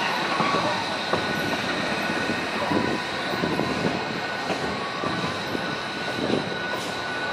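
Coal-fired steam train heard from aboard as it rolls along: a steady rumble and rattle of the moving cars with a thin high whine held throughout and scattered light knocks.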